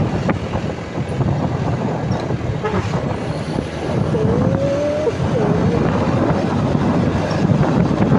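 Truck on the move at speed: steady engine and road noise mixed with wind buffeting the microphone, with a brief faint wavering tone about four seconds in.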